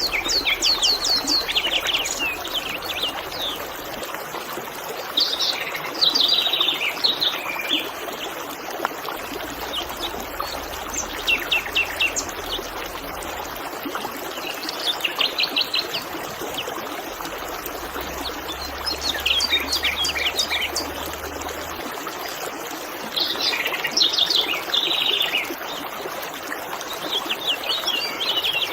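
River water babbling steadily. Over it a songbird repeats short phrases of rapid chirps every four to five seconds.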